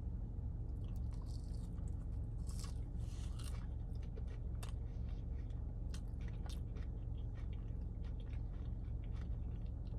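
A person chewing and biting fries close to the microphone, with small wet clicks and a few crunchier bites about one to four seconds in, over a steady low hum.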